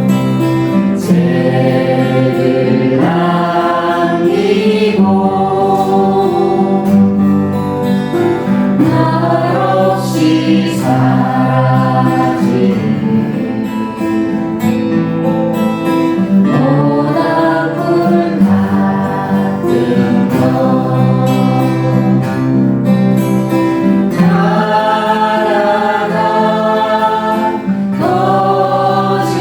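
A song sung to acoustic guitar accompaniment, the melody carried by voice over steady guitar chords.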